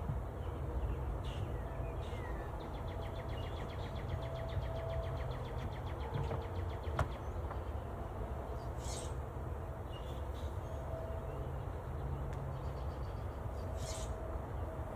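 Outdoor ambience with a low rumble on the microphone. A small bird gives a rapid trill about three seconds in and a few short chirps later. A faint hum comes and goes, from honeybees flying around a newly installed hive.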